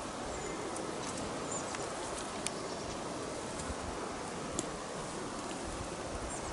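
Steady rustle of grass and brush as a bowhunter moves through the undergrowth, with two sharp clicks, one about two and a half seconds in and one past the middle, and a brief faint high chirp early on.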